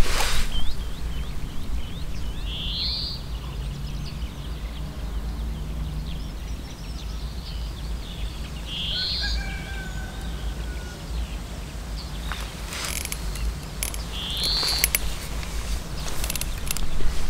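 A bird gives three short, high calls a few seconds apart over a low, steady rumble. Brief rustles and knocks from handling the fishing pole come near the start and again in the last few seconds.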